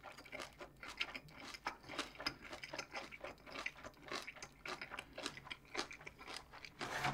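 A person chewing a mouthful of bossam (boiled pork) with kimchi and crunchy seasoned dried radish (무말랭이): a run of small, irregular crunches and wet clicks, several a second.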